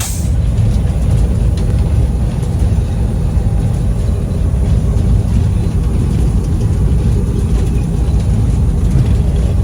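Locomotive running, heard from inside its cab: a loud, steady low rumble.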